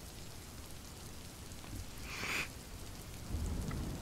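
Steady rain ambience, an even patter of rain on a surface, with a brief louder hiss about two seconds in and a low rumble building near the end.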